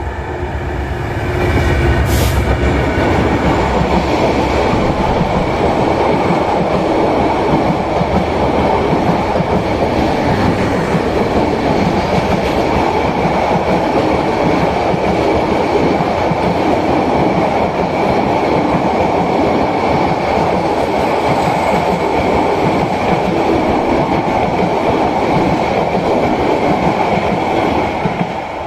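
Suborna Express passenger train running through a station at speed: the locomotive comes up, then a long line of coaches passes with a steady rumble and clatter of wheels on the rails. It gets louder about a second and a half in and eases off near the end as the last coaches go by.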